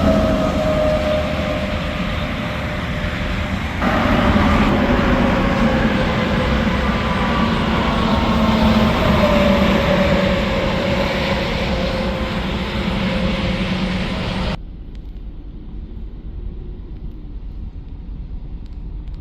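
Heavy trucks passing at highway speed on an interstate: loud tyre and engine noise with a whine that falls in pitch as each goes by, a second one arriving about four seconds in. Near the end the sound cuts off suddenly to a quieter, wind-like rumble.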